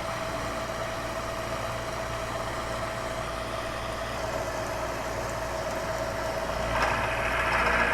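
Bridgeport milling machine running with an end mill cutting into a metal block: a steady motor hum and tone under a constant grinding of the cut, which grows louder about seven seconds in.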